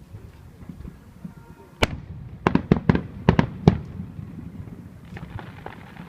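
Fireworks exploding in the air: a single sharp bang about two seconds in, then a quick string of seven or so bangs over the next second and a half, followed by fainter pops and crackle near the end.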